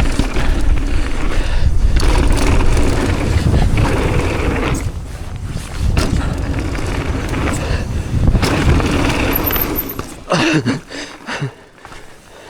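Mountain bike riding down a dirt trail: heavy wind rumble on the microphone over the clatter of tyres and bike. It eases off about ten seconds in.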